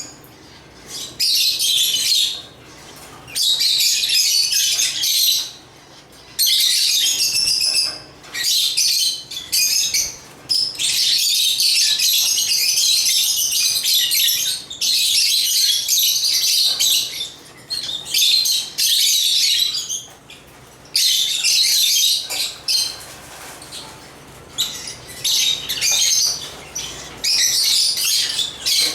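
Lovebirds (Agapornis) chirping in dense, high-pitched bursts of one to several seconds, with short pauses between them.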